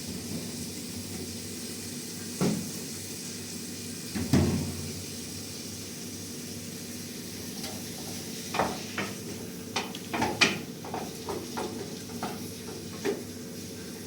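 Steady hiss with scattered light knocks and clinks of kitchen things being handled. Two knocks come early, and a quick run of them falls in the second half.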